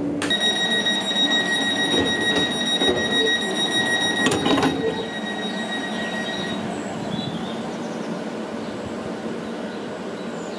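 Class 484 electric train (converted London Underground D stock) at a platform: a steady high-pitched door-closing warning tone sounds for about six seconds, with the sliding doors knocking shut around four seconds in. The train then runs as it pulls away.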